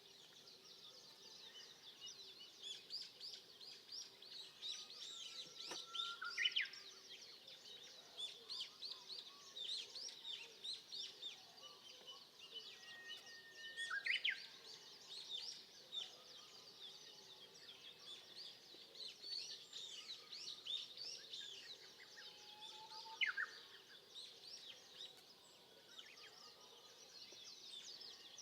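Forest birdsong: a dense, continuous chorus of quick high chirps from many small birds. Three louder calls stand out, each a short steady note ending in a sharp rising one: about a fifth of the way in, halfway through, and toward the end.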